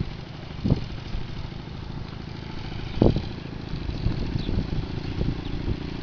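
Motorcycle engine running at low speed while being ridden slowly, with a few brief louder thumps.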